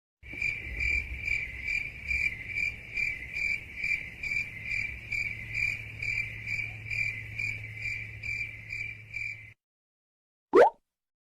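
Crickets chirping, the 'awkward silence' sound effect: a steady high chirp pulsing about two and a half times a second over a low hum, stopping near the end. A short swish follows.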